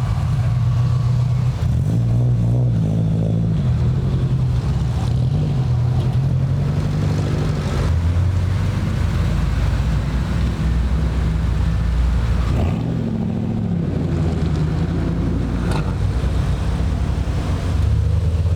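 Car engines running at low revs with a deep, steady exhaust rumble. The pitch steps up and down a few times as the engines change speed, with no hard revving.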